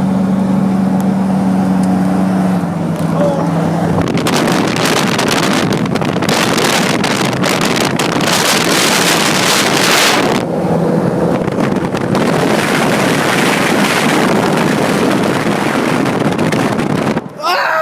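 Car engine humming steadily in the cabin. About four seconds in, loud wind noise from the open car window at road speed takes over, and it drops away near the end.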